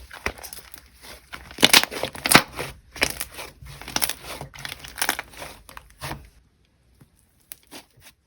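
Slime being handled: squished and worked by hand, a dense run of irregular clicky squelches for about six seconds, then only a few faint clicks.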